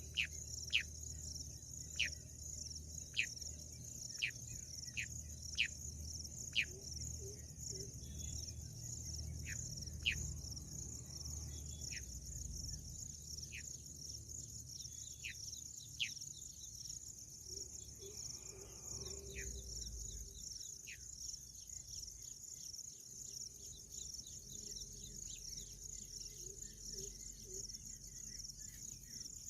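Bush quail calling: short, sharp whistled notes that fall in pitch, about one a second at first, then growing sparser and stopping about two-thirds of the way through. A steady high-pitched chorus of crickets runs underneath.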